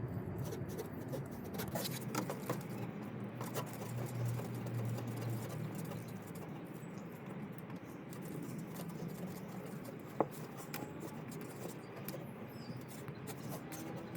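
Hands working a plastic clamp onto the fuel filter housing: small scratching and scraping with scattered clicks, and one sharp click about ten seconds in.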